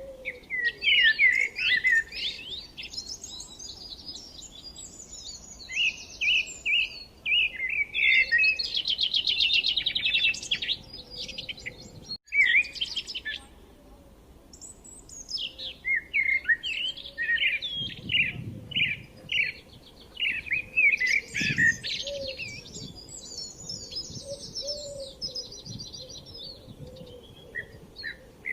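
Birds chirping and singing in quick overlapping phrases of short high chirps, with a fast trill about nine seconds in.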